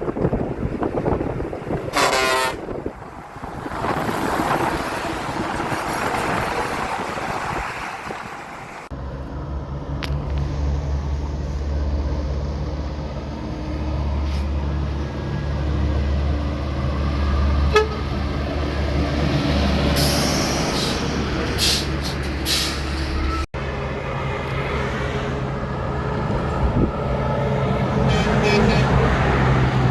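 Heavy diesel trucks on a highway: a short horn blast about two seconds in, then the steady low drone of a truck engine running close by, with road noise and a few sharper sounds over it.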